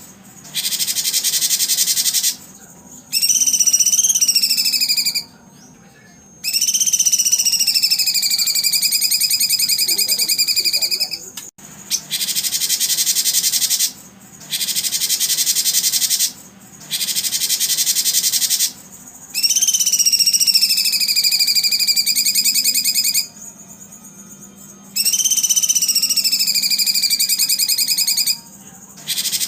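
Recorded songbird calls: dense, high buzzy trills of about two seconds alternate with long whistled notes that dip in pitch and then level off, repeating over and over.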